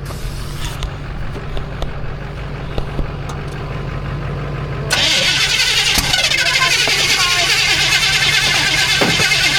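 Old parts pickup truck's engine being started on another attempt: a steady low engine sound, which about five seconds in turns suddenly louder and harsher and keeps going.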